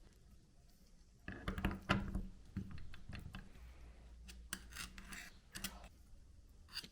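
Metal tools and parts being handled on a workbench: irregular scraping, rubbing and short clicks that come in clusters, starting about a second in and again in the middle and near the end.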